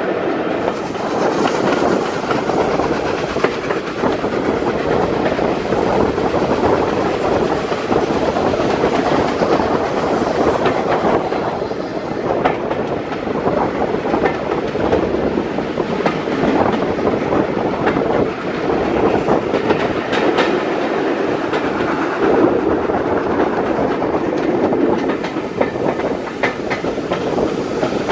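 British Railways Mk1 passenger coach running along the line behind a steam locomotive: a steady rolling rumble with irregular clicks and clatter from the wheels over the track.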